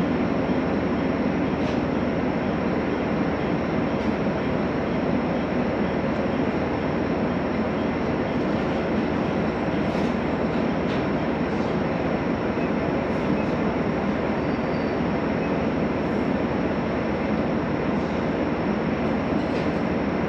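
JR Hokkaido H100 (DECMO) diesel-electric railcar running along the line: a steady rumble of wheels and motor with a few faint clicks scattered through it.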